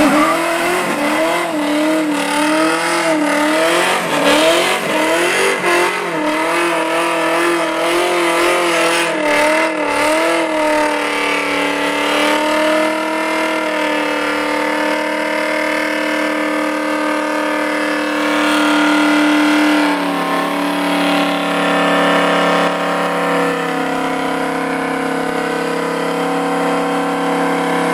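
A 383 stroker V8 in a fourth-generation Camaro Z28 revving hard through a burnout and donuts while the rear tires spin. The engine pitch rises and falls for roughly the first ten seconds, then is held at steady high revs.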